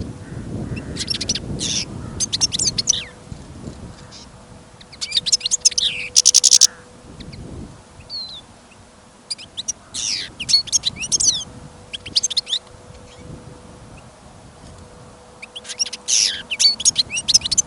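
European goldfinch singing in four bursts of quick, high twittering and tinkling notes with short pauses between, and wind rumbling on the microphone in the first few seconds.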